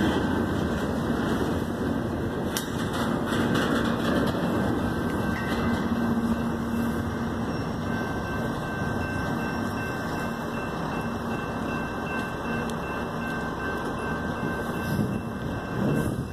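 Double-stack intermodal container train rolling past close by: a steady rumble of steel wheels running over the rails.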